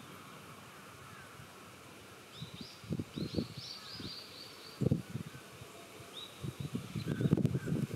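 A small bird calling a quick run of high chirped notes, then a shorter run, over irregular low rumbling bumps of wind on the microphone.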